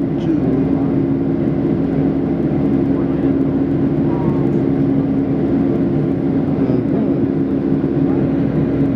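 Steady drone of a jet airliner's cabin with the engines running, a constant low hum under an even rush of noise.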